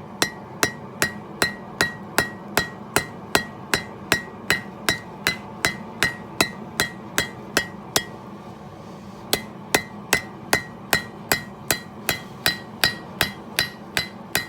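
Hand hammer striking a hot steel blade on an anvil in a steady rhythm of about two blows a second, each with a short metallic ring. The hammering stops for about a second past the middle, then resumes. The smith is thinning the blade behind a dimple as he forges a knife from a file.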